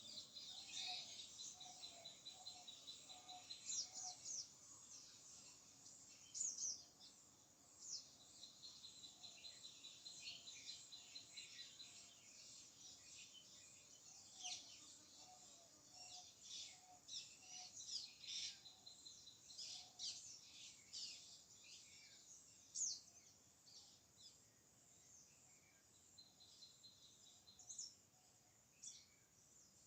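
Dawn chorus of many birds singing and calling over one another: quick high chirps and whistles throughout, a thin, fast pulsing trill in long stretches, and two runs of about half a dozen low, evenly spaced hooting notes, one near the start and one around the middle.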